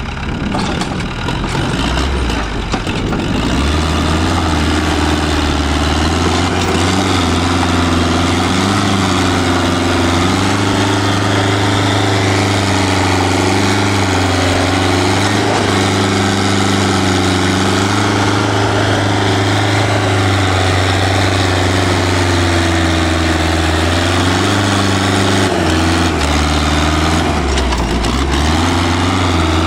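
Tractor engine running at a steady, low speed, its pitch wavering slightly and dipping briefly near the end.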